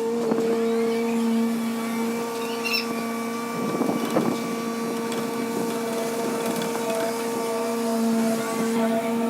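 HW60 excavator's engine and hydraulics running at a steady pitch, with a short burst of clatter about four seconds in.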